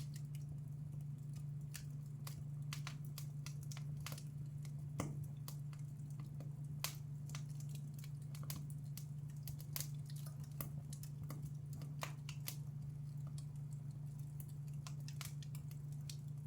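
Fireplace fire crackling, with irregular sharp pops and snaps, a few louder ones, over a steady low hum.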